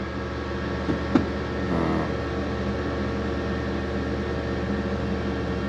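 Corn grain dryer running with its burner lit: a steady hum from the fan and burner. One sharp click about a second in.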